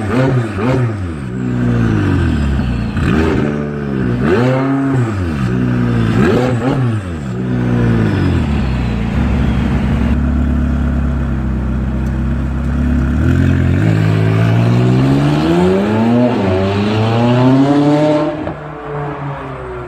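McLaren 570S twin-turbo 3.8-litre V8 through an Armytrix exhaust, blipped in a string of quick revs that rise and fall, then holding a steady low note for several seconds. It then climbs in one long rising rev that cuts off sharply near the end.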